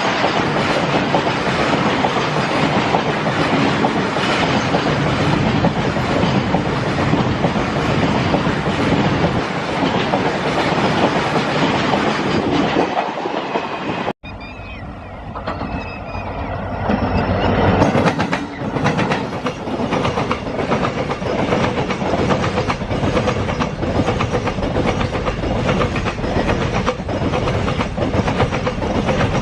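Indian Railways freight train wagons rolling past, the wheels clicking rhythmically over rail joints. About halfway through the sound cuts off suddenly. A second passing freight train then starts quieter, grows louder over a few seconds and settles into the same steady clickety-clack.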